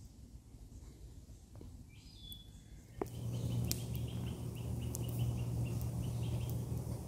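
Woodland ambience with songbirds: a single whistled note about two seconds in, then from about three seconds a fast run of repeated chirps over a steady low rumble, with a few faint clicks.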